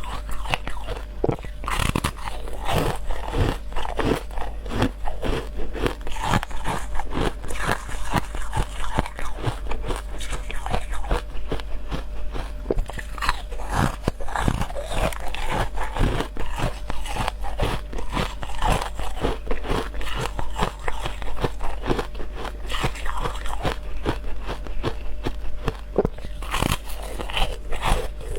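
Ice being bitten and chewed close to the microphone: a continuous run of sharp, crackly crunches, several a second, with a steady low hum underneath.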